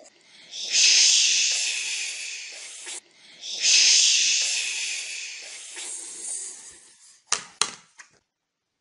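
A child making the long 'shhh' sound of the letter X, twice, each lasting two to three seconds and fading away, followed by a few sharp clicks near the end.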